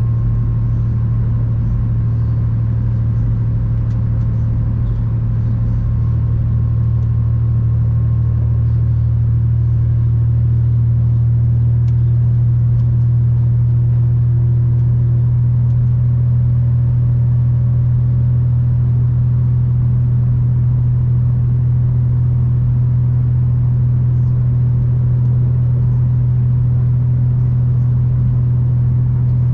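V/Line passenger train running along the line, a steady low rumble and hum as heard from inside a carriage.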